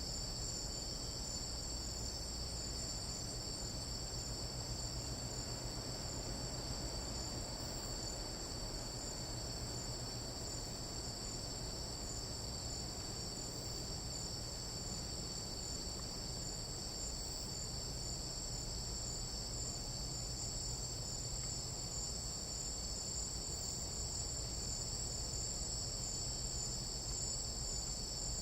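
Chorus of night insects such as crickets and katydids, a steady high-pitched trill that does not change, over a faint low background rumble.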